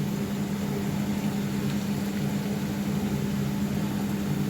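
A steady low hum with a light hiss underneath, unchanging throughout.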